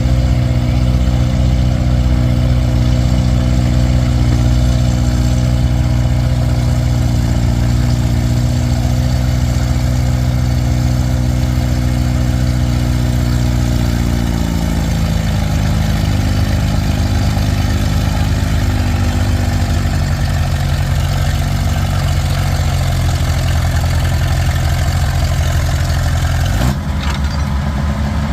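Antique tractor engine running at full throttle while pulling a weight sled. The engine note holds steady at first, then slowly sinks in pitch as the engine lugs down under the growing load, and near the end it drops off abruptly as the throttle comes off.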